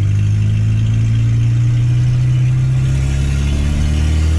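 Turbocharged VW Gol's AP four-cylinder engine running steadily while driving, its pitch easing down slightly near the end.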